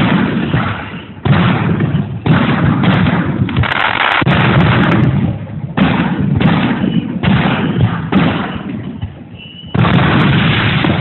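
Aerial fireworks shells bursting in quick succession: about ten loud booms, roughly one a second, each trailing off in a rumbling echo.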